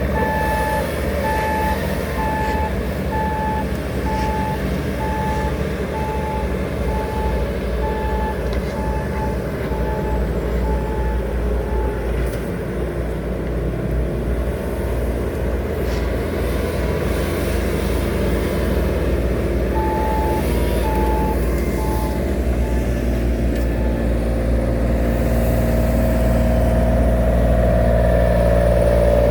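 Diesel engine of heavy paving machinery running steadily while its reversing alarm beeps about once a second, stops, then beeps a few more times. Near the end the engine gets louder.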